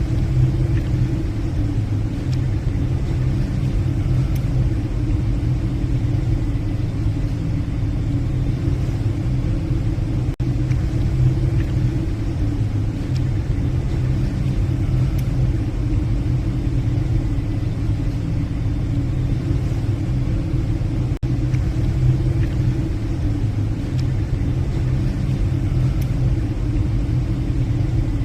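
Steady low drone of a passenger ship's engines and machinery heard from the bridge, an even rumble that holds without change.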